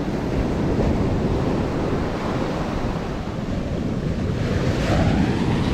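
Surf rushing onto the shore, with wind buffeting the microphone in a steady low rumble.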